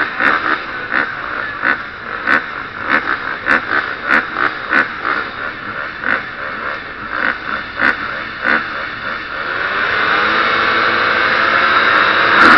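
A KTM 350 SX-F single-cylinder four-stroke motocross engine revving in short, repeated surges. From about ten seconds in, it is held open in a steady, louder pull that rises in pitch.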